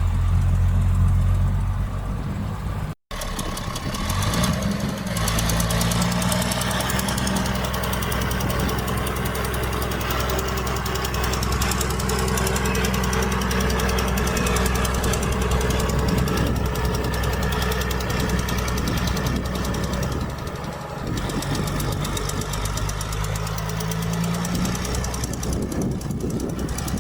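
Heavy diesel engine of earth-moving machinery running under load, with a fast knocking clatter. It cuts out for an instant about three seconds in, then rises in pitch, and rises again near the end.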